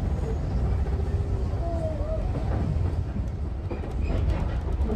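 Steam train's passenger carriage running along the track, a steady low rumble heard from on board.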